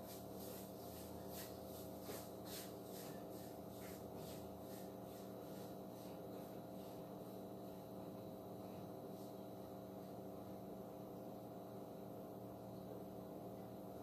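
Quiet steady hum with faint light ticks, frequent at first and thinning out by about halfway.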